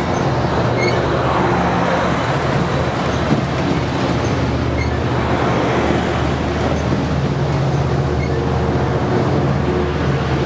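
Amtrak passenger train departing, its F59PHI diesel locomotive (EMD 12-cylinder 710 engine) running with a steady low drone over continuous rolling rail noise.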